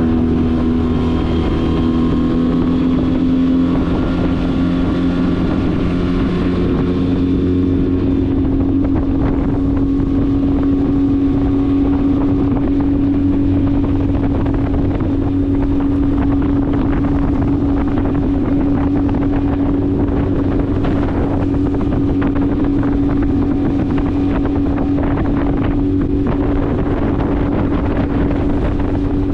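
Yamaha 8 horsepower outboard motor running steadily with the boat under way. Its pitch rises slightly over the first few seconds, then holds at cruising speed.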